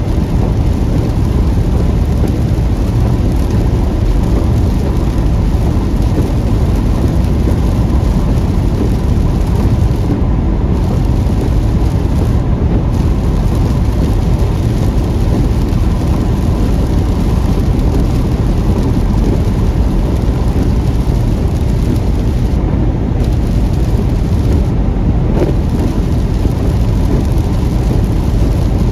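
Heavy rain on a car driving through a thunderstorm, over a steady low rumble of road and engine noise.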